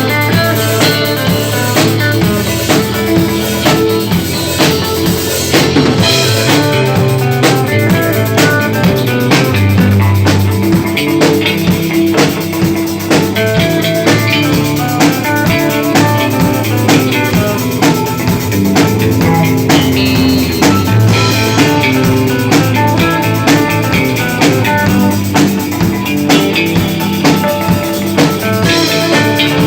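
Instrumental passage of a rock band's recording: a drum kit keeping a steady beat under electric guitar and bass, with no vocals.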